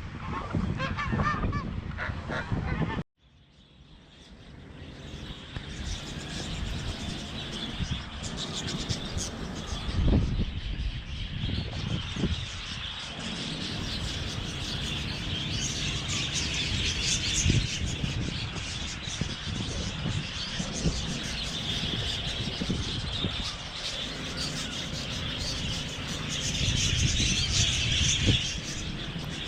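Captive birds calling: geese honking at first, then the sound cuts out about three seconds in and fades back up into a steady chorus of chirping small birds.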